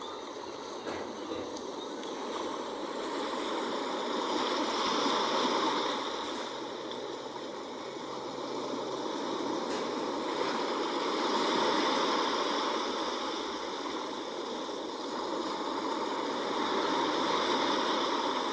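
Sea waves washing in, a steady rush of water that swells and eases about every six seconds, three times.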